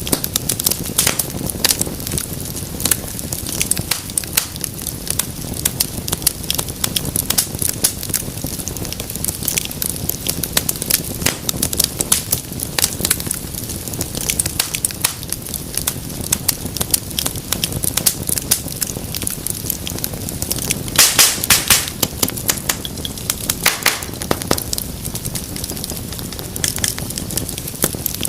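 Fireplace fire crackling and popping with irregular sharp snaps over a steady low rush of flame. A quick run of louder pops comes about three-quarters of the way through.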